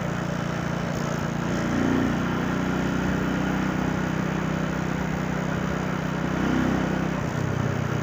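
Motorcycle engine running steadily while riding in traffic, with two brief swells of engine sound, about two seconds in and again near the end.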